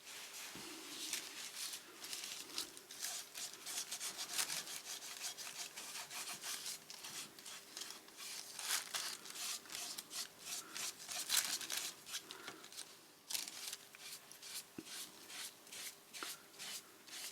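Collage paper being rubbed and smoothed down onto a page wet with matte medium: a long run of irregular, scratchy rubbing strokes.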